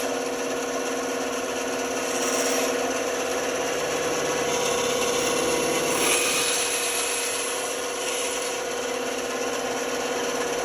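Band saw running with a steady motor hum while its blade cuts through wood, the cutting hiss swelling about two seconds in and again around the middle.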